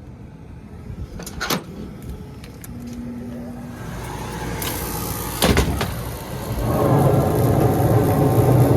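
Rooftop gas heating unit starting a heat cycle on a jumped call for heat: a few clicks, a short hum, the draft inducer spinning up, a sharp click about five and a half seconds in, then a louder steady rush and rumble from about seven seconds in as the burners fire.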